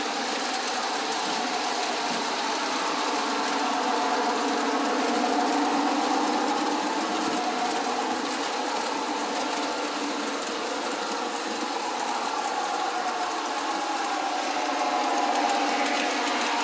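Model train running on its track: a steady electric-motor whir with the rolling of wheels on rails, its pitch wavering slowly up and down.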